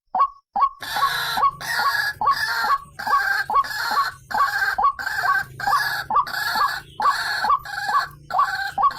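White-breasted waterhen calling: a run of repeated "ruak" notes, about two to three a second. Sparse sharp notes in the first second give way to fuller, harsher calls.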